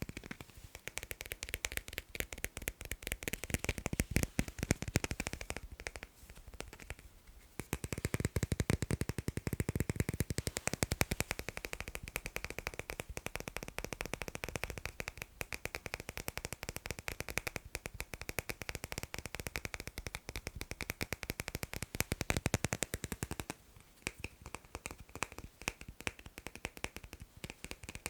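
Fast tapping on magnets: a rapid, dense run of small clicks, softer for a moment about six seconds in and again near the end.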